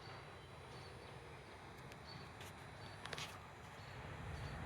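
Quiet outdoor background: a faint low rumble, with a few soft clicks about two and a half and three seconds in.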